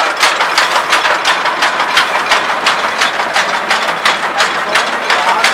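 Massey Ferguson 385 tractor's four-cylinder diesel running under load while driving a toka (chaff cutter) machine, with a fast, even chopping rhythm of about four to five strokes a second.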